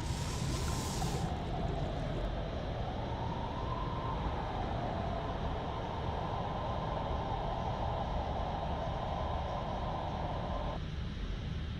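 A steady low rumble like a large vehicle running, with a wavering wail-like tone that slowly dips and rises, holds, and cuts off suddenly near the end.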